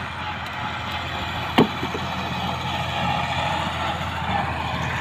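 Petter-type single-cylinder diesel tube-well engine running steadily, with a single sharp knock about a second and a half in.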